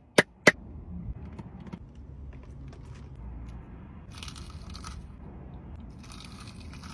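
Two sharp clicks near the start, then crisp food being crunched and eaten in two stretches, one around the middle and one near the end, over a low steady rumble.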